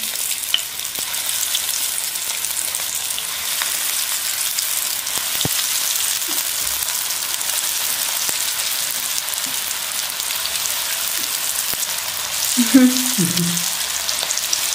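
Breadcrumb-coated potato cutlets sizzling as they shallow-fry in hot oil in a nonstick pan: a steady hiss with faint crackles as more pieces are laid in.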